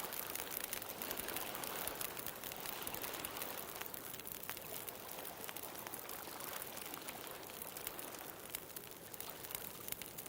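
Bonfire crackling, with many small sharp pops and snaps, over a steady wash of ocean surf that slowly eases off.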